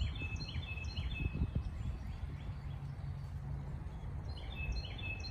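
A songbird calling a run of repeated high, clear notes, about two a second, for the first second and a half. It starts again about four and a half seconds in, over a steady low outdoor rumble.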